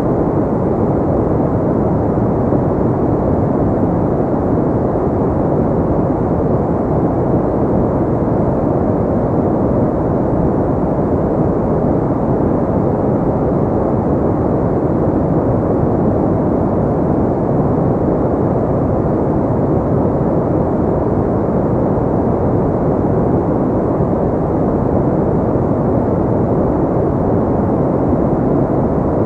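Steady pink noise: a constant, unchanging rushing hiss, deep and muffled, with almost nothing in the treble.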